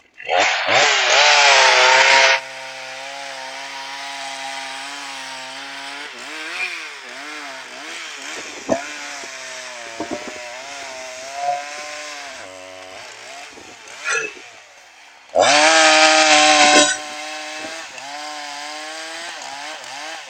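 Chainsaw revved to full throttle for about two seconds, then running at a lower, steady speed with small throttle blips, and revved hard again for about a second and a half near the end.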